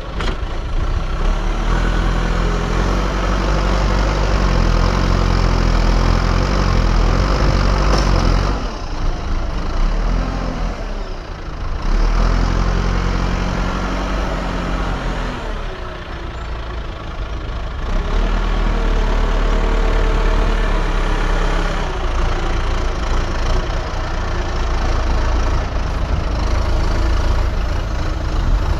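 Diesel engine of earthmoving machinery running under working load, its note dropping and picking back up twice as the revs and load change.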